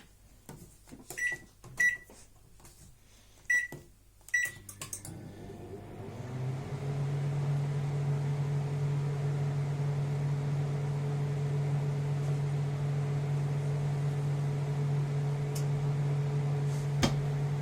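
Microwave oven: a few button clicks and four short keypad beeps, then about five seconds in the oven starts and runs with a steady low hum. A single sharp click comes near the end.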